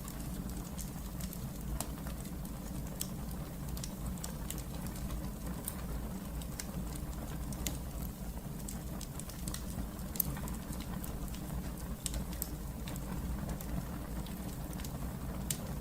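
Wood fire burning in a fireplace, crackling with frequent sharp irregular pops over a steady low rumble of the flames.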